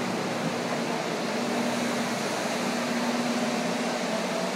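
Steady whir of heaters set up to dry out the flooded apartment, running as an even noise with a steady low hum.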